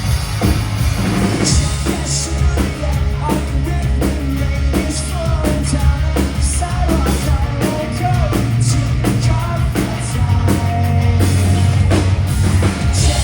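Rock band playing live, with a singing voice over drums and sustained bass notes.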